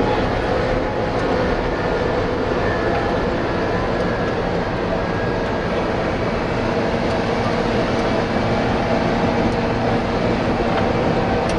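Tour bus engine and road noise heard from inside the cabin, running steadily with a low drone.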